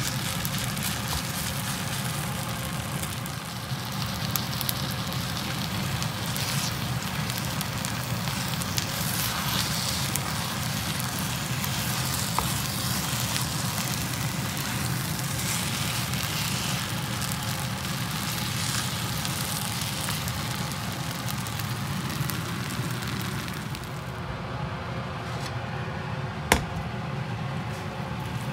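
Kimchi fried rice sizzling and crackling in a nonstick frying pan while a wooden spatula stirs it, with small ticks of the spatula against the pan. A single sharp click sounds near the end.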